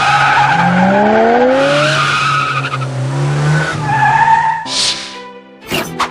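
Race car sound effect: an engine revving up in rising pitch over tyre squeal, then a short whoosh. Music with a regular beat starts near the end.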